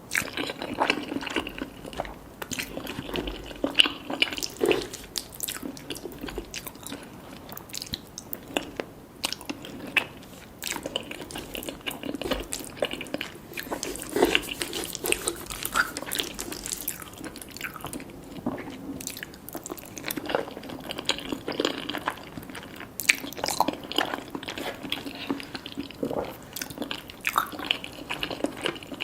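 Close-miked eating sounds: chewing and biting through a meal of Jollibee crispy fried chicken (Chickenjoy) and spaghetti, with frequent irregular clicks and crunches.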